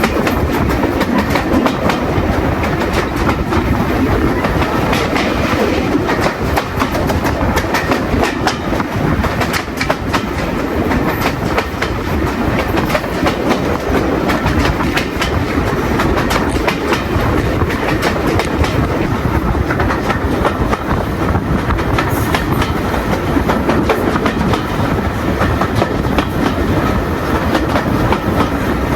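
Train hauled by an LMS Stanier Class 8F steam locomotive running steadily along the line, heard from on board: a continuous loud rumble with wheels clicking and clattering over the rail joints.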